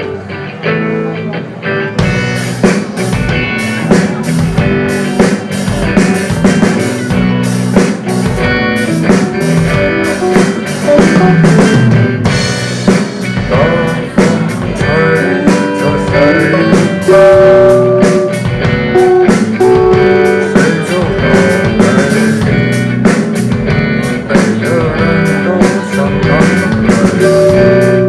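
Rock band playing an instrumental intro: guitar opening alone, with drums and bass coming in about two seconds in and the full band playing on.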